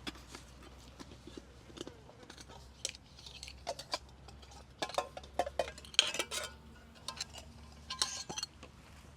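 Metal clinks and taps of camp cookware and stove parts being handled, irregular, with a cluster of louder ringing knocks a little past the middle.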